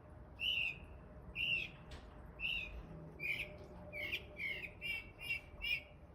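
A bird calling repeatedly in short notes, about one a second at first and then speeding up to two or three a second in the second half.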